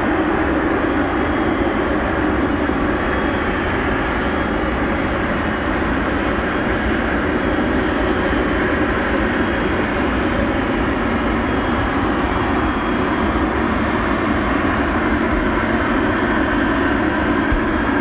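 Jet airliner engines heard across the airfield as one steady, loud noise that holds at the same level throughout, with no rise or fall.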